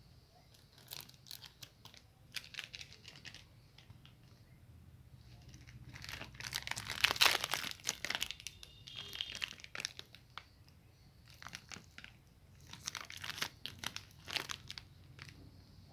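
Plastic candy wrappers crinkling and tearing as they are handled and opened, in irregular bursts, loudest and most continuous from about six to eight seconds in.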